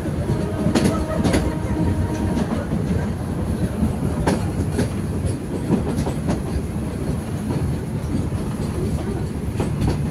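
Metre-gauge heritage train heard from on board a coach: a steady rumble of the wheels on the track, with sharp clicks of the wheels over rail joints now and then.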